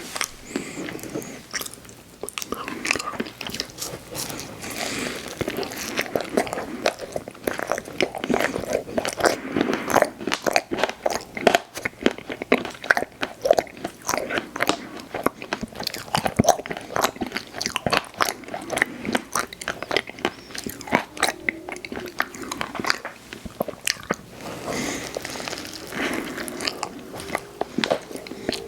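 Close-miked eating of ice cream desserts: big bites, crunching and wet chewing, with many quick irregular clicks and smacks.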